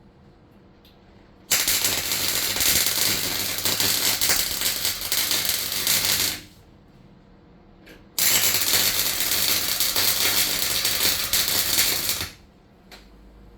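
Electric welder's arc crackling and sizzling in two runs of about four to five seconds each, a couple of seconds apart, as holes in a van floor are welded up.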